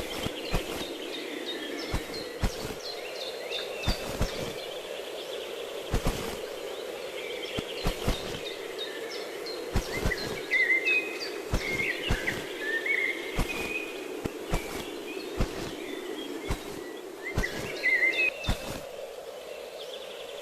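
Outdoor ambience of birds chirping in short warbling phrases over a steady hum, with scattered sharp clicks throughout.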